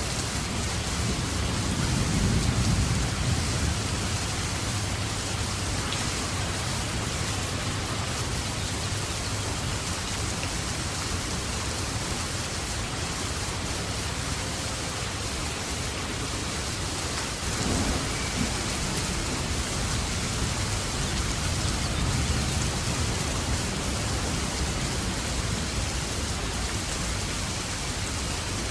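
Steady heavy rain falling, with a low rumble of thunder swelling about two seconds in.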